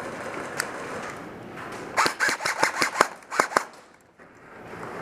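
Airsoft guns firing: a single shot, then a quick irregular string of about nine shots over a second and a half.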